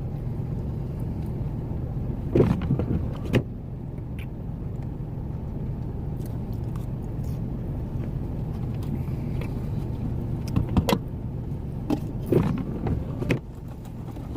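Steady low rumble of a truck idling with its heater running, heard from inside the cab. A few short sharp noises stand out over it, two a few seconds in and a cluster near the end.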